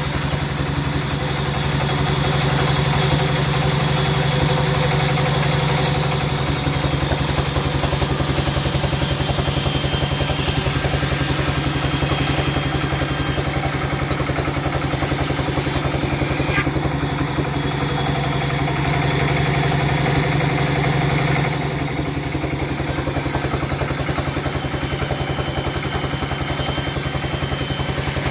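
Sawmill machinery running steadily: a loud engine-like hum with a fast, even pulse, its higher hiss shifting in level a few times.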